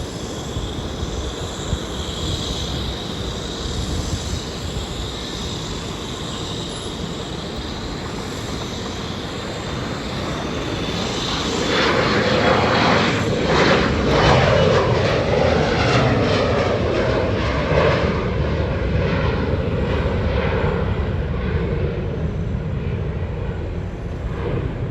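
Embraer E175 regional jet's twin GE CF34 turbofans at takeoff power: a steady jet rumble with a high whine, swelling into a louder roar about twelve seconds in that holds as the jet goes by.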